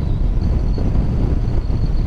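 Wind rushing over the microphone of a motorcycle on the move: a loud, steady low rumble.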